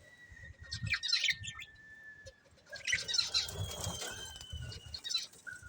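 Pet budgerigars chirping and chattering in quick bursts, about a second in and again from about three seconds in, with wings fluttering.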